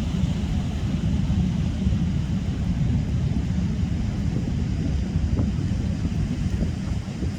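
Heavy wind rumbling on the microphone over the steady wash of sea surf.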